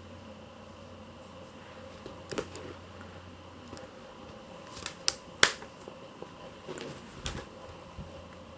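A few scattered sharp clicks and light knocks of household handling over a faint steady room hum, with a quick cluster about five seconds in, the last of them the loudest.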